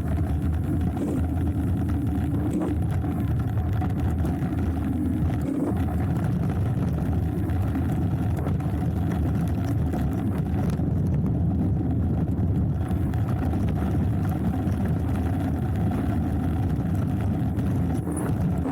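Hardtail mountain bike riding down a dirt trail: a steady low rumble of tyre and trail noise.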